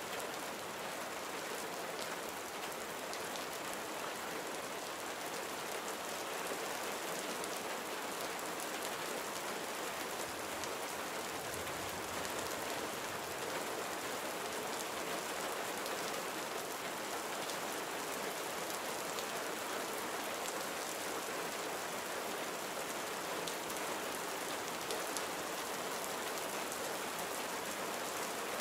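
Steady gentle rain falling on surfaces, an even hiss of many fine drops with no thunder.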